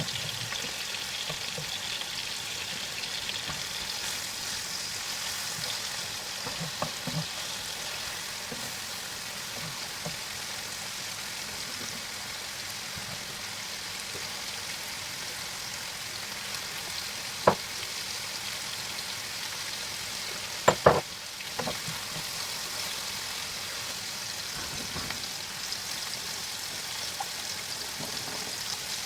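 Food frying in a pan with a steady sizzle, broken by a few sharp clicks, one about two-thirds of the way through and a quick cluster just after.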